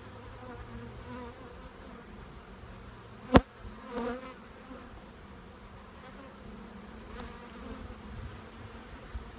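Honey bees buzzing in a steady hum around an opened hive, with one sharp knock about three seconds in.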